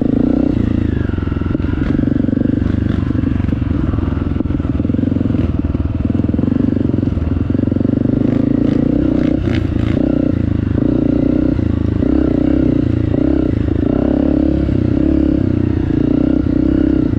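Honda CRF 250 four-stroke single-cylinder trail bike engine running at steady mid revs with small throttle changes, with light clattering over the trail.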